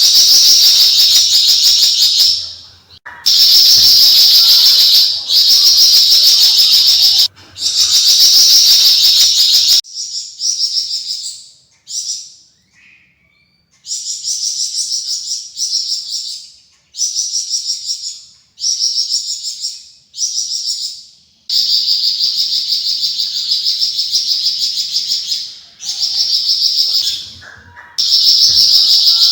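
Javan fulvetta (Alcippe pyrrhoptera) singing its long, rapid, high-pitched chattering runs ('besetan'), in bursts of about two seconds with short gaps. Through the middle the runs are quieter and shorter; loud, long runs return in the last third.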